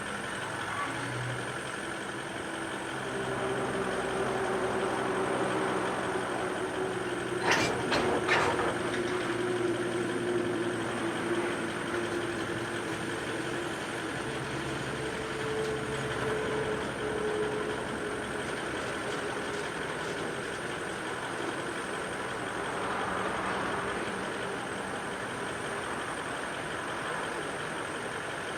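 Grain train of hopper wagons moving off again after a stop, with a steady mechanical drone and a few steady tones. Two sharp knocks come close together about seven and eight seconds in.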